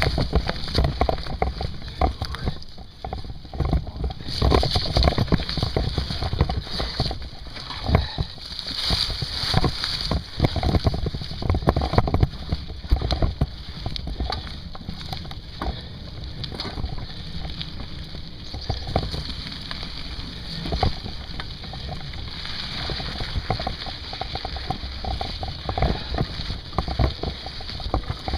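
Wind buffeting the microphone during a mountain bike ride, with frequent knocks and rattles from the bike moving over rough ground.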